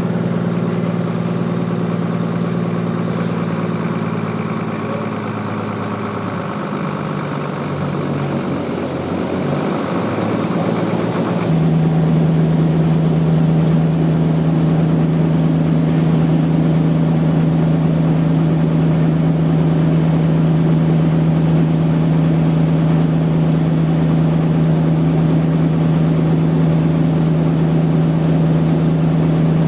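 Sawmill machinery running with a steady, loud hum. About eleven seconds in the pitch shifts and it settles into a louder, even drone.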